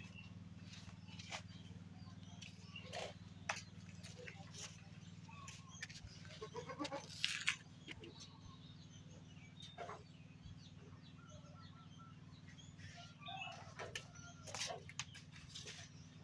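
Penned buck goats, bleating a few times over scattered knocks and clicks, with a steady low hum underneath.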